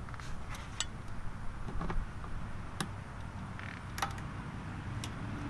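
Scattered light clicks and taps of hand tools and small metal parts being handled during reassembly of a small engine, a sharp click every second or so over a low steady hum.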